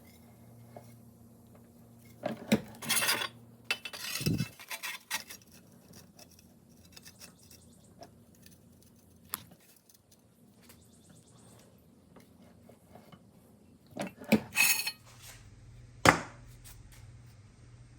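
Small metal parts clinking and rattling as they are handled, in two bursts several seconds apart, the second ending in one sharp knock.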